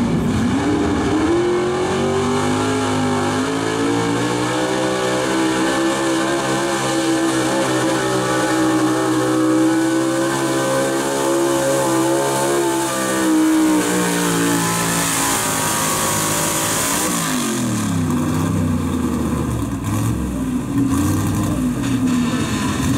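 Gasoline engine of a Super Street Gas 4x4 pulling truck revving up and held at high revs under load through a pull, then the revs fall away in two steps to a lower, rougher running near the end.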